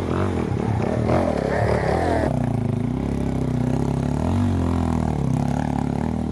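Motorcycle engine running under way, its pitch dipping and rising a few times as the throttle changes.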